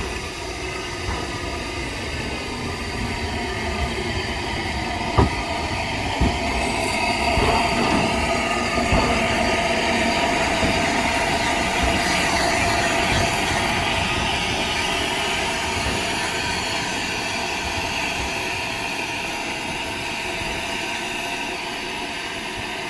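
A train running along the track: a steady rumble of wheels on rail with a thin, steady wheel squeal, a couple of sharp knocks over rail joints about five seconds in, swelling to its loudest about halfway and easing off after.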